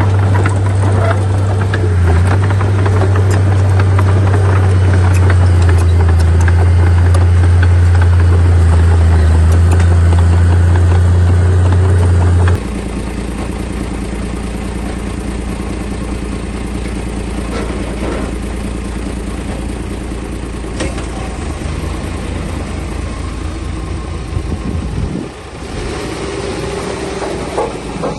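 Diesel engines of heavy earthmoving machinery running. A loud, steady low drone with clatter gives way abruptly, about twelve seconds in, to a quieter engine sound. There is another sudden change near the end.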